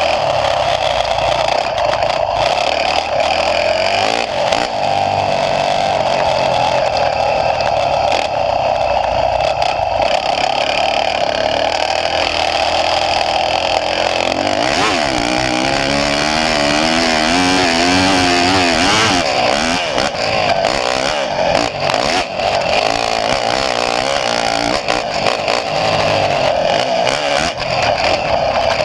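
Motocross bike engine running hard on a lap, its pitch rising and falling with the throttle, most plainly about halfway through.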